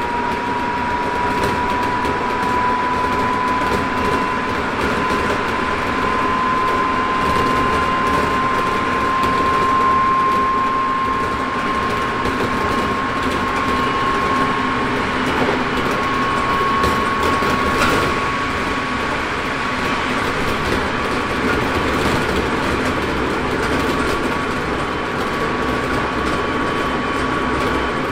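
Hokuso 7300-series electric train with Toyo GTO-VVVF traction equipment, heard from inside the car while running at about 100 km/h: a steady rumble of wheels on rail with a single motor whine that rises slowly in pitch as the train gains speed. There is one sharp click about eighteen seconds in.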